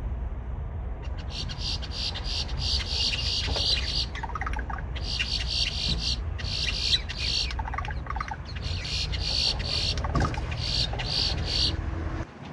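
Grackles calling in a chorus of harsh, electronic-sounding squeaks and rasps like a dial-up modem, in runs of a second or two with short breaks. A steady low rumble lies underneath.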